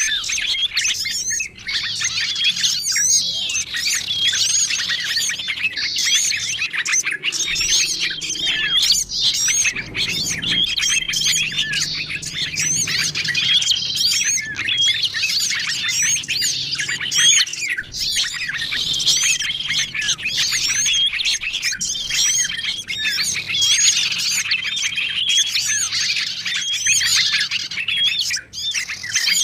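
Mixed chorus of small songbird calls from a bird-lure (pikat) track, made to draw in wild small birds. Rapid high chirps and twitters overlap without a break, and a short, level whistled note comes back about every two seconds.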